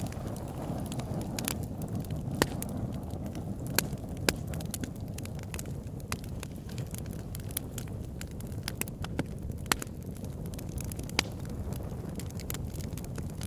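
Wood fire burning in an oil-drum fire pit: a steady low rumble of flames with irregular crackles and several sharp pops from the burning log.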